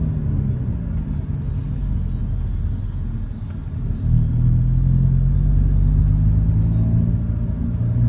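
Hyundai Elantra N's turbocharged 2.0-litre four-cylinder engine running under way, easing off for a few seconds, then pulling again from about four seconds in with a steady drone.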